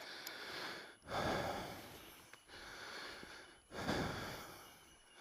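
Three soft puffs of air noise on the microphone, each about a second long, the first and last the strongest.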